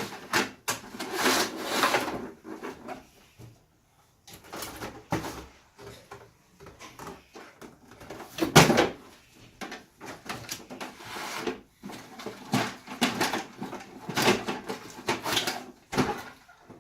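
Cardboard packaging rustling and scraping in irregular bursts as a plastic toy truck is pulled out of its box and the cardboard insert is taken off, with one loud knock about eight and a half seconds in.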